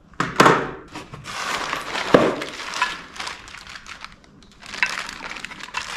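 Packaging being handled and pulled apart during unboxing: rustling and crinkling in two spells, with a single knock about two seconds in.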